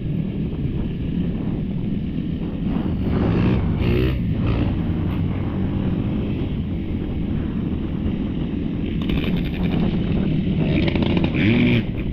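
Off-road dirt bike engine running under way, its pitch swinging up and down briefly about four seconds in and again near the end as the throttle is worked.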